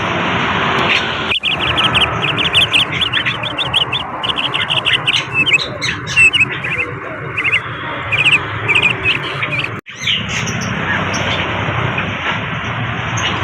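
Bali myna singing: a fast run of short repeated chirps, then varied whistled and chattering notes, from about a second and a half in until about ten seconds in. A steady hiss lies under it, and the sound cuts abruptly at both ends of the song.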